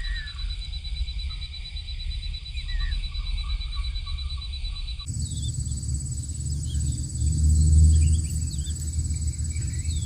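Outdoor ambience: a steady high insect drone over a low rumble, with scattered short bird chirps. About halfway through the drone jumps higher in pitch and the rumble grows louder.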